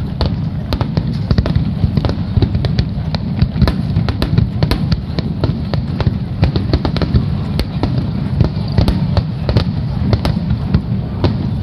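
Aerial fireworks display: a continuous low rumble of shell bursts, with many sharp crackling pops, several a second.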